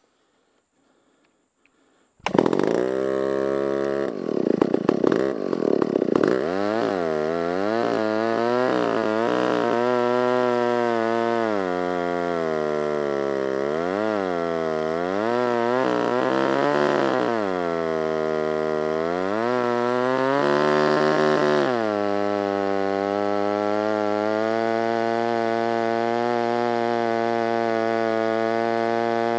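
Stihl 056 two-stroke chainsaw with a 36-inch bar cutting into a dead elm. It starts suddenly about two seconds in, its engine pitch dropping and recovering again and again as the bar bites into the wood, then holding steady for the last several seconds.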